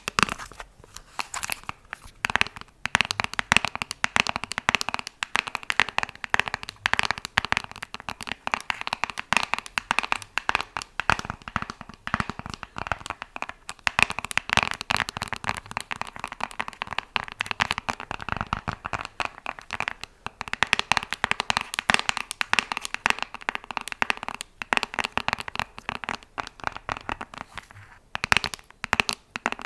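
ASMR finger tapping: a fast, dense run of small crisp clicks that goes on almost without a break, with brief lulls a couple of times.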